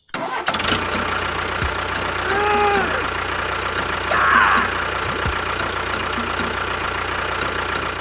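An engine running steadily, starting abruptly and cutting off suddenly near the end. A brief rising-and-falling tone sounds about two seconds in.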